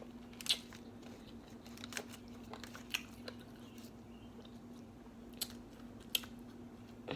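Close-miked eating: chewing and biting with a handful of sharp mouth and food clicks spread through, over a faint steady hum.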